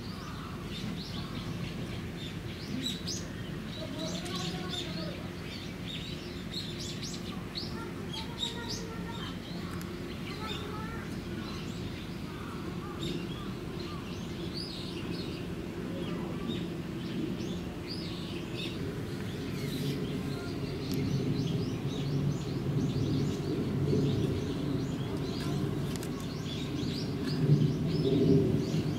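Small birds chirping, with many short high calls throughout, over a steady low background rumble that grows louder in the last few seconds.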